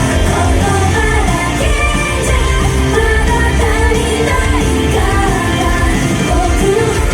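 Japanese idol pop song with a vocalist singing over a full band backing track, played loud and steady.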